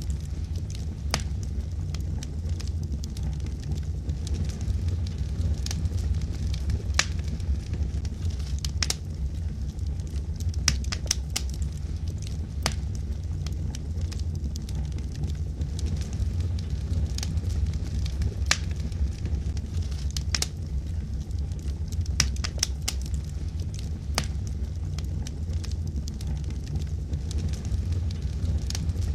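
Wood fire burning in a fireplace: logs crackling and popping with irregular sharp snaps over a steady low rumble of the flames.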